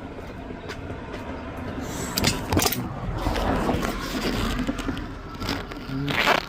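Clicks, scrapes and clattering of hand tools and metal engine parts being worked on, starting about two seconds in over a steady low background rumble.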